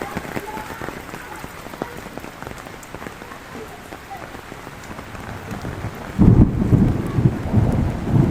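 Heavy rain hissing steadily, with scattered sharp drop ticks. About six seconds in, a loud low rumble of thunder breaks in and keeps rolling.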